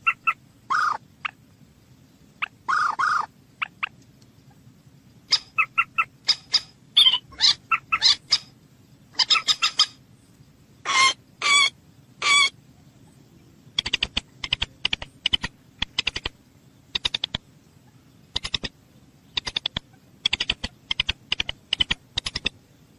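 Moorhen calling: runs of short, sharp call notes in quick succession, broken by a few longer harsh calls.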